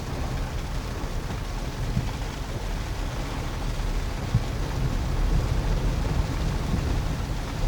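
Low, steady rumble of a truck rolling over a rough dirt road on aired-down tyres, heard from inside the cab, with rain hissing on the body and windscreen and a few faint knocks.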